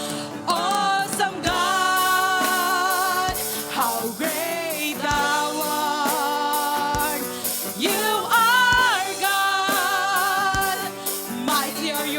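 Worship song: a lead singer holding long, wavering notes over a band with keyboard and a steady drum beat.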